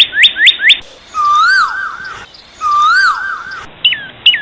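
Parrots calling: a quick run of short, sharply falling shrieks, then two longer warbling whistled phrases, then more short falling shrieks near the end.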